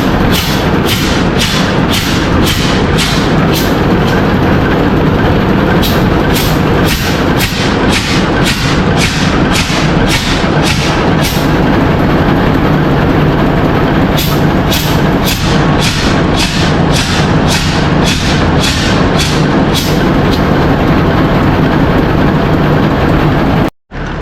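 Loud, steady din of a ship's engine-room machinery, with a regular high ticking about two and a half times a second that comes and goes in stretches of several seconds. It cuts off suddenly near the end.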